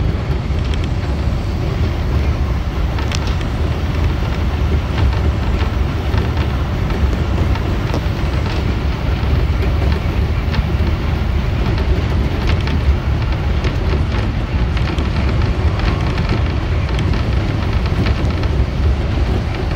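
Keihan electric train running along the line, heard from inside the front car: a steady low rumble with scattered faint clicks.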